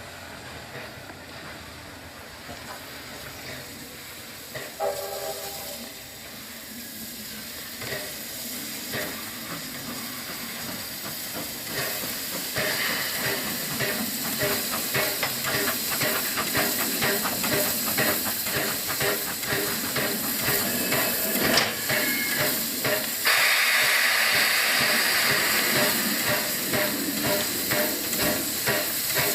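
Steam locomotive working past: a short whistle about five seconds in, then its exhaust beats, regular and getting louder as it comes closer, and a loud hiss of steam near the end.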